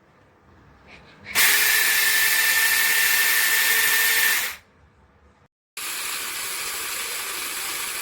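SEESII 6-inch cordless mini chainsaw's electric motor running in two runs. The first is about three seconds long and loud, with a steady high whine. The second, after a short break, is quieter and steady.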